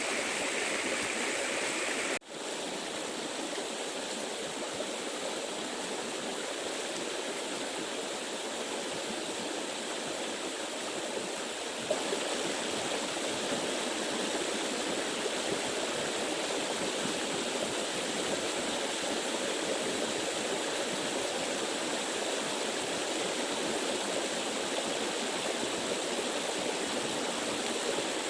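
Steady rushing of a flowing stream, an even water noise with no speech, briefly cut off for an instant about two seconds in.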